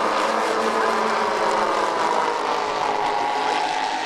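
Zenoah 38 two-stroke petrol engines of two large 1/6-scale Avro Lancaster models running together in flight, a steady many-engined drone whose pitch sinks slightly as they go by.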